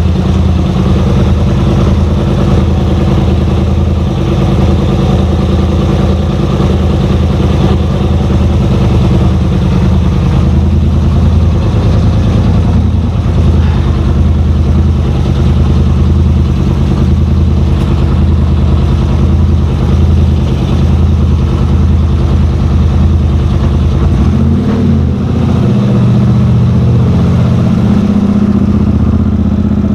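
Straight-piped engine of a warmed-up vehicle running steadily at idle. About 25 seconds in the engine note shifts up a little.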